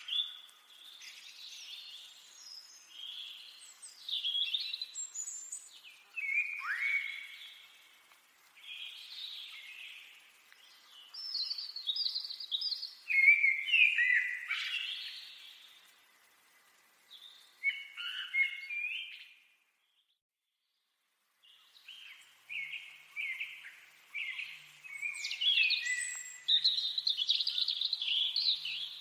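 Small birds chirping and calling in a busy, overlapping chorus of short high notes and quick whistled glides. The sound cuts out completely for about two seconds a little past the middle, then resumes.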